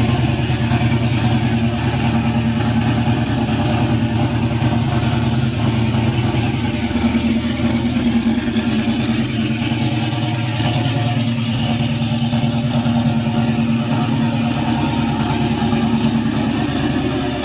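Car engine idling steadily at an even speed, without revving.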